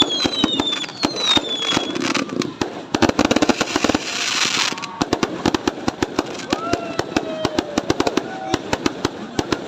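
Fireworks going off in a dense run of rapid cracks and pops. Falling whistles sound in the first two seconds, and a hissing burst comes about three to four seconds in.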